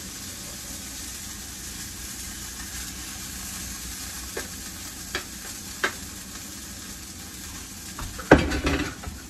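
Seasoned potato dough sizzling steadily in a hot frying pan, with a few light clicks and a louder clatter near the end.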